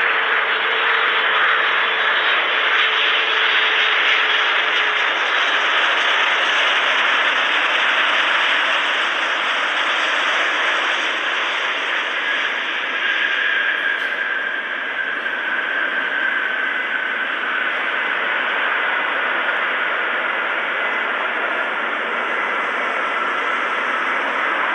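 GE9X jet engines of a Boeing 777-9 airliner running loud: a steady rushing noise with a faint whine that slowly falls in pitch during the second half.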